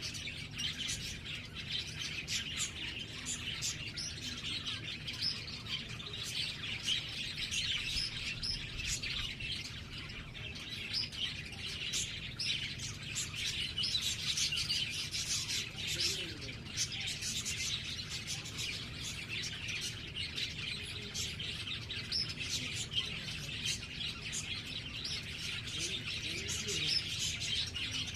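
Small birds chirping continuously in quick, overlapping chirps, over a steady low hum.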